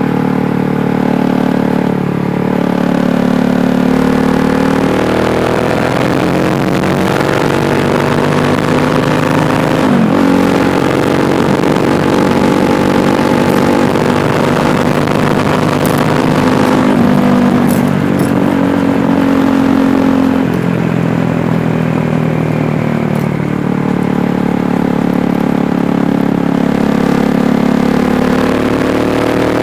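KTM Duke 390's single-cylinder engine running under way. Its pitch rises and falls with the throttle, drops suddenly about ten seconds in and climbs again near the end.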